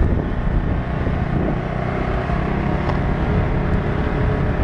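Rented motor scooter riding at a slow, steady pace: the small engine runs evenly under a rough, low rumble of wind on the microphone.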